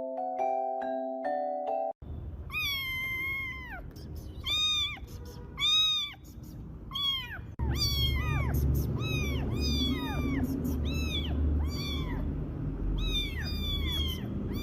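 Mallet-percussion music plays for about two seconds, then a cat meows over and over. The first meows are drawn out, and after about seven seconds they come quicker, about two a second, over a steady low background noise.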